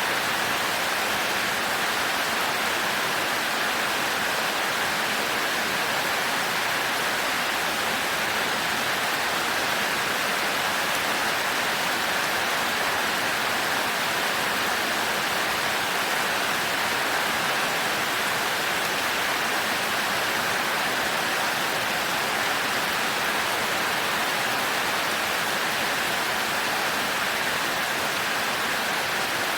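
Heavy rain pouring steadily, an even, unbroken hiss with no thunder.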